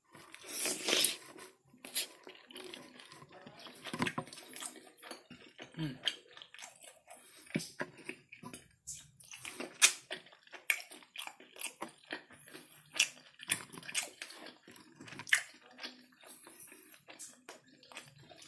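Close-miked eating of kerupuk basah (temet), a soft, chewy fish cake: wet chewing and mouth clicks at an irregular pace, with a louder slurp about a second in as a long piece is drawn into the mouth.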